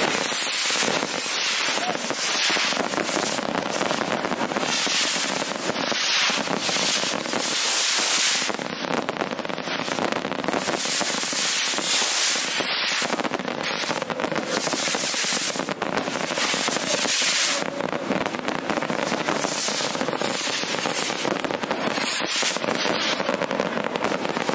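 A dense barrage of rocket fireworks: continuous hissing launches overlaid with rapid, irregular bangs and crackling, with no pause.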